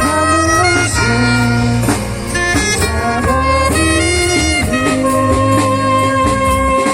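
Live band music: a lead instrument holding sustained melody notes over a bass line and a steady drum beat.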